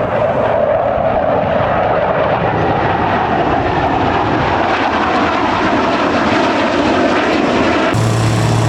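Aircraft engine noise from a display aircraft flying past, loud and steady, with its main pitch slowly falling. About 8 s in it switches abruptly to a steadier, lower engine drone.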